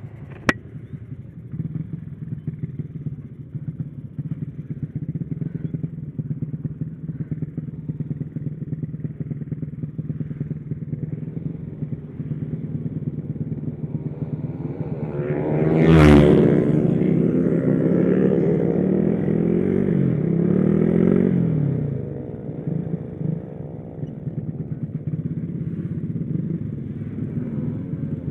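Motorcycle engine running steadily while riding. About fifteen seconds in the revs climb sharply and stay high for several seconds of hard acceleration before dropping back.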